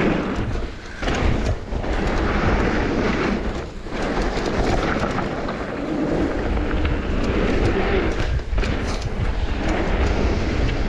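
Mountain bike riding down a bike-park trail: wind buffeting the microphone with a low rumble, tyres on dirt and gravel, and the bike rattling with sharp clicks over bumps.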